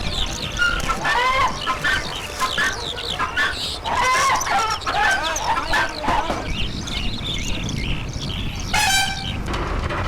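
Chickens clucking and calling in a steady run of short calls, with one louder, harsher call about nine seconds in.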